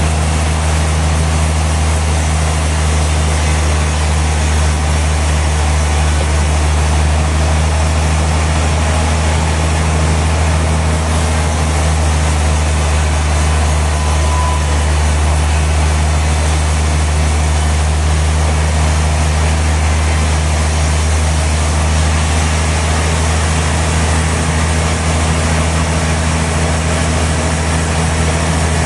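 Sawmill machinery running steadily: a loud, constant low drone with a hiss of noise above it, with no change in load.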